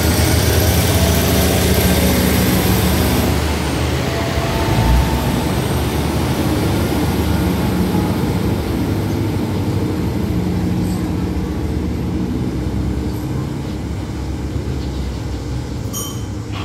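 Diesel railcar train pulling out of the station: engines running under load and wheels rolling on the rails, with a thin high squeal in the first few seconds. The sound slowly fades as the last car passes and the train moves away.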